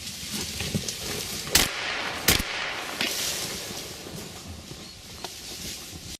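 Two loud gunshots from a hunting gun, less than a second apart, over a steady rushing noise.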